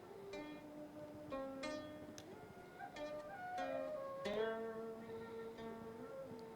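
Slow background music on a plucked string instrument of the zither kind: single notes struck a second or so apart, each ringing and fading, some bending in pitch.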